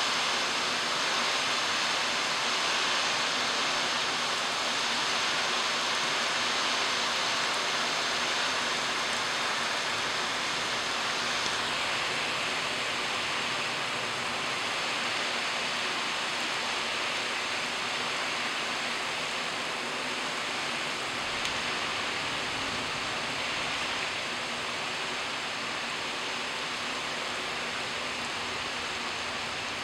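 Steady rain falling, an even hiss with no breaks that eases slightly in the second half.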